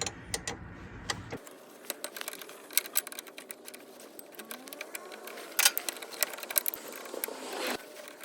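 Irregular metallic clicks and clinks of hand tools working on a hydraulic fitting on a lift cylinder.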